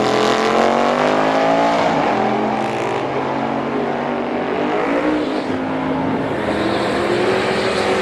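Drag-racing engines at full throttle on a launch and run, their pitch climbing, falling back and climbing again as they shift up through the gears.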